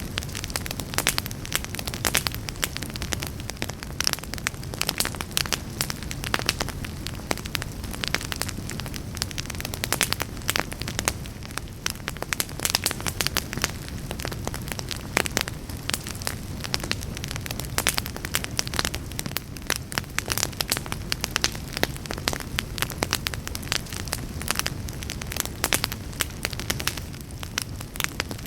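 Wood fire burning in a fireplace: a continual dense crackling and popping of the logs over a steady low rumble of the flames.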